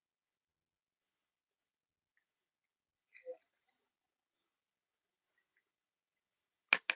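Faint insects chirping high-pitched in short, scattered bursts, with a sharp double crack near the end.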